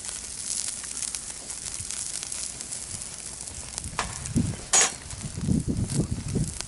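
Food sizzling on a grill over a wood fire, a steady hiss with fine crackles. About four seconds in there is a sharp click, then a short clatter just before five seconds, the loudest moment, and a few low bumps after it.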